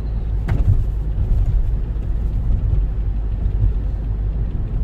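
A car driving on the road, heard from inside: a steady low rumble of tyres and engine, with one brief click about half a second in.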